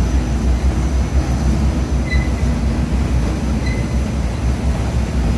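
Large industrial waste-fabric shredder line running under load: a steady, heavy low rumble of machinery, with a few faint short high chirps scattered through it.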